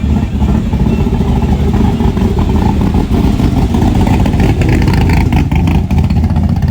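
A vehicle's engine running close by as it drives up, a loud, steady low rumble with a rapid pulsing beat.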